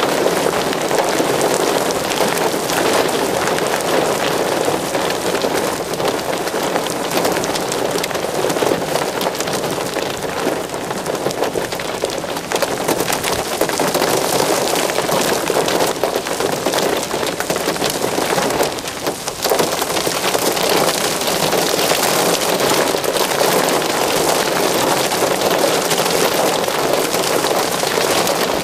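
Steady heavy rain, a dense patter of drops, easing briefly about two-thirds of the way through.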